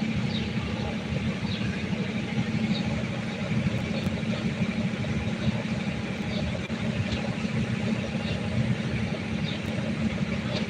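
Steady low rumbling background noise like a running engine or traffic, with faint short high chirps every second or so.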